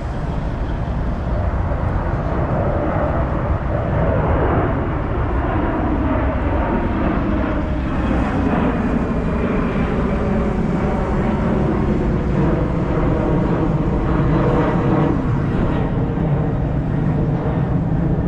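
Heavy diesel truck engine running with a deep steady rumble, its pitch rising and falling a few times as it is revved or changes speed.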